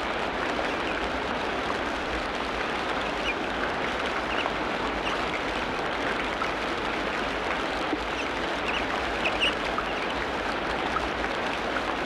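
Tropical rainforest ambience: a steady hiss of rain, with a few short high chirps scattered through it, the loudest about nine seconds in.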